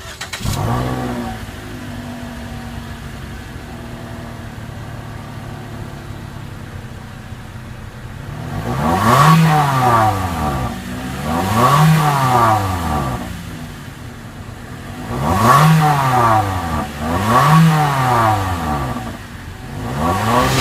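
2014 Toyota Corolla S Plus's 1.8-litre four-cylinder engine starting up, with a short flare that settles to a steady idle. It is then revved four times, each rev climbing and falling back to idle.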